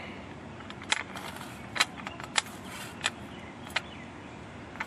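Stirrup hoe worked back and forth through garden soil to cut weeds off at the root. Its blade gives a sharp click on each stroke, about five in all, over a faint steady hiss.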